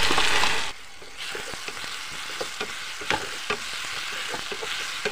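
Sliced onions and garlic paste sizzling in hot mustard oil in a frying pan, stirred with a slotted spatula that clicks and scrapes against the pan. The sizzle is loud at first, then drops suddenly just under a second in to a quieter frying hiss with many small spatula clicks.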